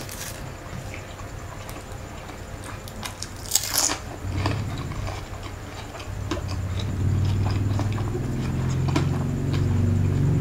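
Close-miked eating by hand: chewing with small wet mouth clicks and one loud crunchy bite about three and a half seconds in, in a meal of fried rice and fried spring rolls. A low rumble comes in midway and grows louder toward the end.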